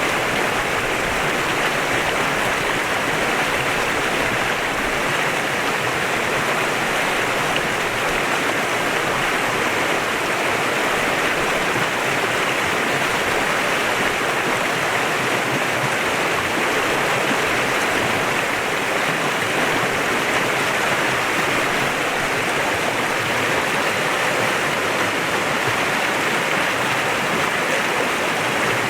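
A clear mountain stream flowing steadily over rocks, an even rushing sound that never changes.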